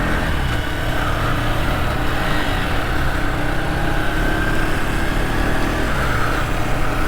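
Bajaj Pulsar NS160's single-cylinder engine running steadily.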